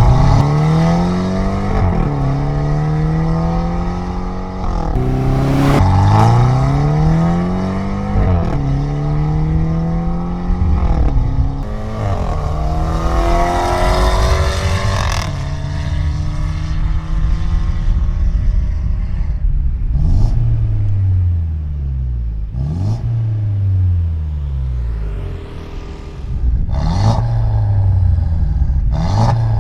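Mercedes E300 Coupe engine through a decat valvetronic exhaust, accelerating hard through about five upshifts, the note climbing and dropping back at each shift. In the second half the revs fall away, broken by short rev blips and a few sharp cracks.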